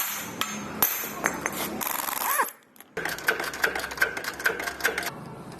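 Metal tools and car parts clicking and clinking in rapid light taps, with a short break about two and a half seconds in.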